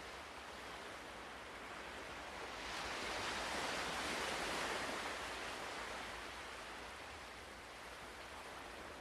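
Ocean waves washing onto a shore: a steady hiss of surf with one wave swelling up a few seconds in and ebbing away again.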